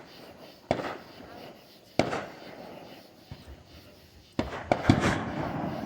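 Fireworks going off: a sharp bang about a second in and another about two seconds in, each with a short echoing tail, then a quick cluster of bangs near the end.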